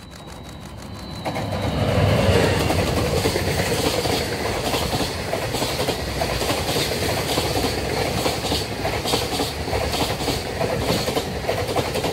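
DF200 diesel-electric freight locomotive passing close, the sound rising fast to its loudest about two seconds in. Then a long train of loaded container wagons rolls by with a steady rumble and repeated clickety-clack of wheels over the rail joints.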